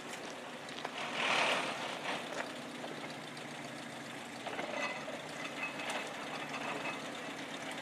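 Engine of a 1.5-ton forest railway motor car (GB1.5) idling steadily, with a brief rush of noise about a second in.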